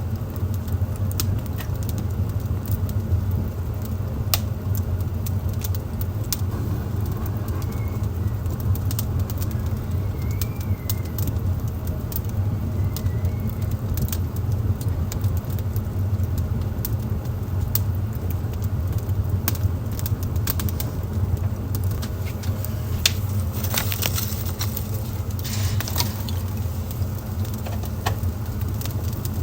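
Wood fire burning in a fireplace: frequent sharp crackles and pops over a steady low rumble, with a burst of louder crackling late on.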